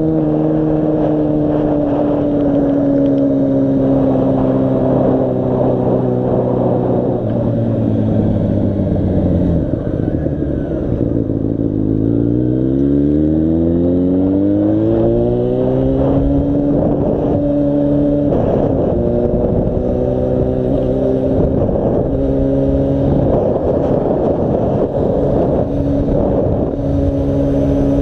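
Yamaha FZ6 motorcycle's inline-four engine under way. Its pitch falls steadily as it slows over the first ten seconds or so, then climbs quickly as it accelerates about twelve to sixteen seconds in, and holds steady while cruising after that.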